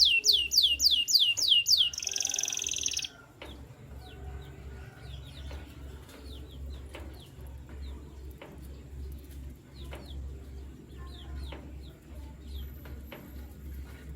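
A canary sings a loud phrase of rapid falling whistled notes running into a fast trill, which breaks off suddenly about three seconds in. Softer, scattered single chirps follow over a low pulsing sound.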